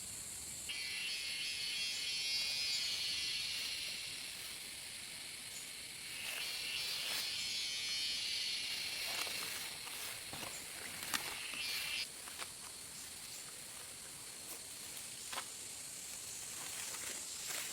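Insects buzzing: a steady high drone, with a louder pulsing buzz from about a second in to about four seconds, and again from about six to twelve seconds. Scattered light clicks and knocks.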